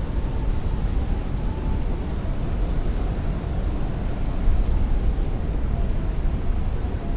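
Heavy rain and strong wind, a steady dense rushing with a deep low rumble.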